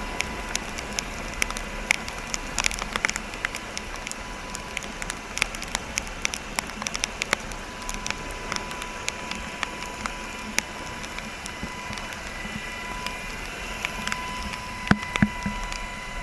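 Steady hiss peppered with irregular crackles and clicks, patter-like, with a faint steady high tone behind it and a few louder knocks near the end.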